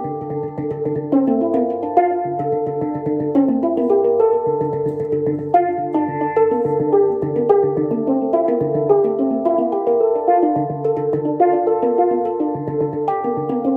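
Handpan played in a flowing melody, notes struck one after another in quick succession and left ringing over each other, with a deeper low note sounding again every second or two.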